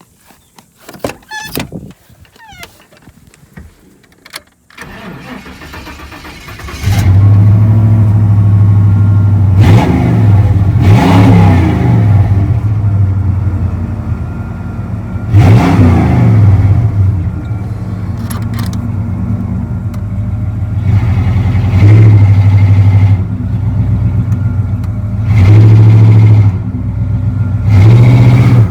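Chevrolet Z71 pickup's throttle-body-injected V8 cranking after a few clicks, catching about seven seconds in and running loudly through a Flowmaster exhaust. The throttle is blipped in about five short revs between steadier running, a test start with the truck's original MAP sensor refitted.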